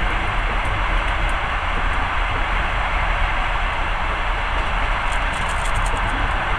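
Passenger train running at speed: a steady rumble and rush of wheels on track, with a few faint high ticks near the end.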